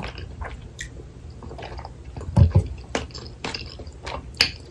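Close-miked wet chewing and mouth smacks of someone eating saucy spicy tteokbokki, with a pair of low thumps about halfway through.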